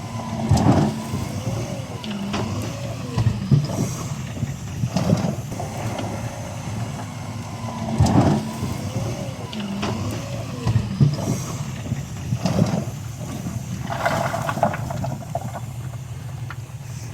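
Heavy diesel construction machinery running steadily, with sharp metallic clanks and wavering squeals on top.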